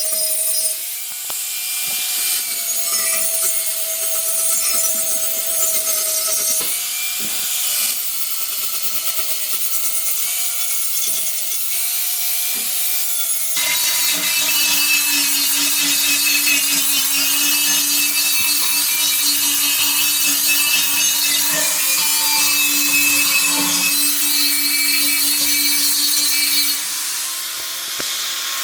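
Electric power tool running against a workpiece, its motor pitch dipping and recovering several times as it is loaded. About halfway through it gives way abruptly to a lower, steadier motor tone with a strong hiss of abrasion.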